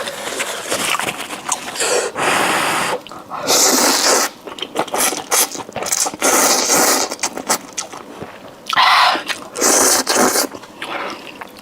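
Close-miked eating: chewing and mouth sounds, with several noisy bursts of about a second each.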